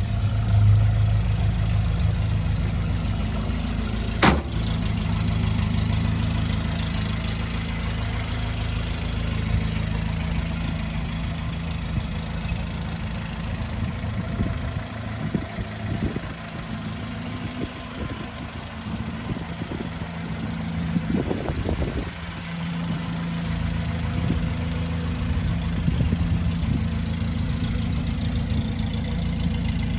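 1952 Land Rover Series 1's four-cylinder petrol engine idling steadily after a cold start following three months standing. There is one sharp click about four seconds in.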